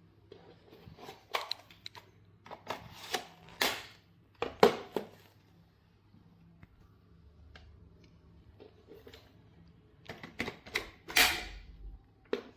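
Irregular clicks, taps and knocks in two clusters: a run in the first five seconds, then a quiet stretch, then another run from about ten seconds in. A faint steady low hum lies underneath.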